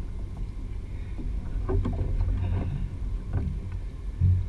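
Kayak on the water picked up by a GoPro: a steady low rumble of water and wind on the microphone, with a few light knocks and a duller thump near the end.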